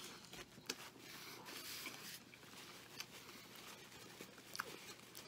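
Faint chewing and soft mouth clicks of a man eating a burger, with a few scattered small clicks.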